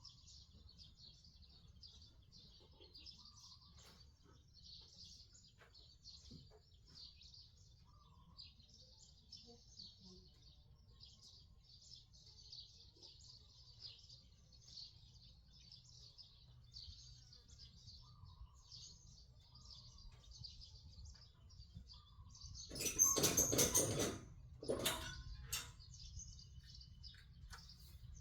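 Small birds chirping steadily in the background. Near the end comes a louder noisy burst lasting a second or so, followed by a couple of short knocks.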